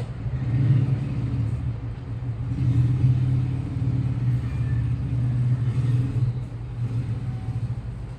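Washing machine spinning its drum: a steady low rumble that swells and eases, loudest about three seconds in and fading a little near the end.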